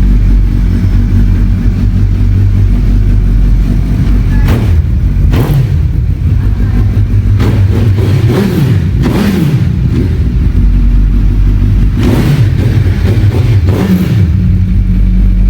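Superbike engine idling with a lumpy, steady beat and revved several times: short throttle blips about four and five seconds in, longer revs rising and falling from about seven to ten seconds, and again from about twelve to fourteen seconds. It cuts off suddenly at the end.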